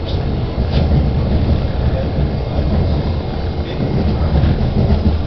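Interior of a Budd-built Miami Metrorail car in motion: a steady loud low rumble from the wheels and running gear, with a few faint clicks over it.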